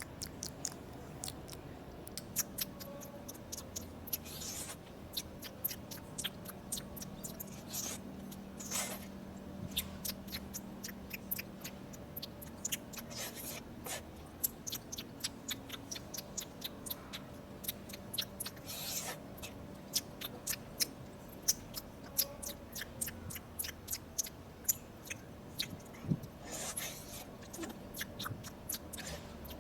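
A person chewing sushi with the mouth close to the microphone: a steady run of many short, irregular mouth clicks and smacks.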